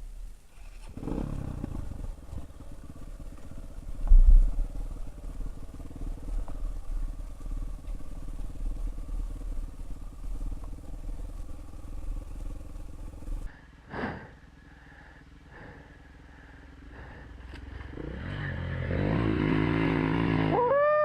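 Trail motorcycle engine running, with a loud knock about four seconds in. After a sudden cut and a quieter stretch in the middle, a motorcycle engine grows steadily louder, its pitch rising and falling near the end as it is revved.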